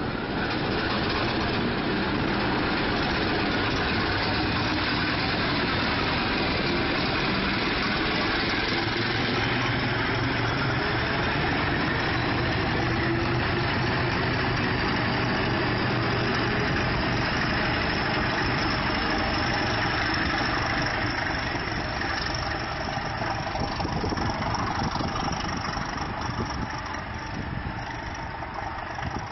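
Diesel engine of a ČD class 749 'Bardotka' locomotive, a ČKD six-cylinder K6S310DR, running hard under load as it hauls a passenger train away from the station. It holds steady and loud, then gets quieter over the last several seconds.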